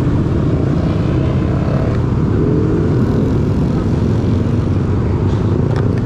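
Several motorcycle engines running together in a steady low rumble, with a few short clicks near the end.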